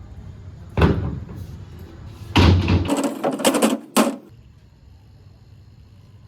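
A single knock about a second in, then a quick run of knocks and clatters, like boards being handled and set down, ending with one last sharp knock about four seconds in.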